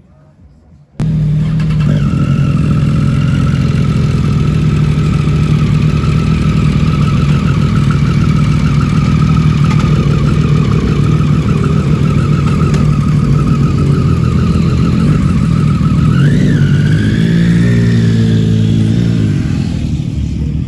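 A vehicle engine running close by, starting abruptly about a second in and holding steady, with a brief rise in pitch near the end.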